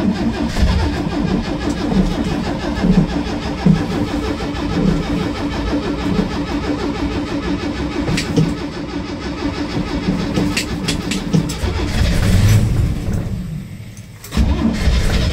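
A starter motor cranks a worn-out 1974 GMC Chevrolet 250 cubic-inch straight-six over and over in a cold start without a choke: a steady rhythmic churn with a constant whine, typical of a hard start. Cranking goes on for about twelve seconds, stops for about a second near the end, then starts again.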